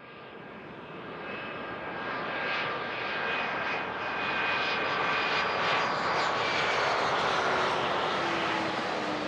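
Business jet's turbofan engines on the runway, getting louder over the first few seconds and then holding, with a rushing roar and steady high whines; a lower tone slowly drops in pitch near the end.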